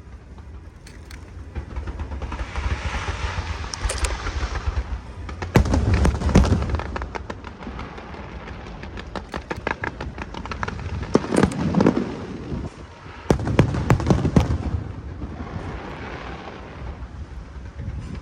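Aerial fireworks going off: three rapid clusters of shell bursts, cracking and booming, with swells of crackling hiss between them.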